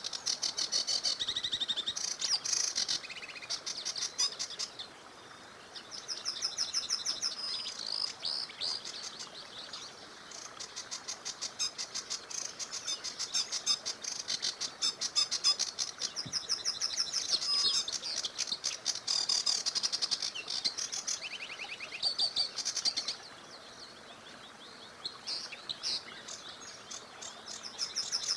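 Songbirds singing in phrases of rapid, high chirps and trills, with short pauses between phrases. Beneath them runs a faint, steady rush of a small river.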